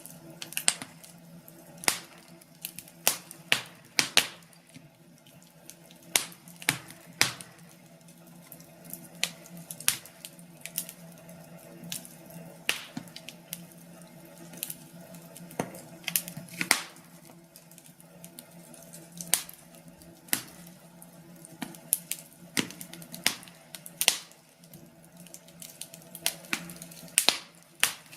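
Wood fire in a fireplace crackling, with irregular sharp pops and snaps over a low steady hum.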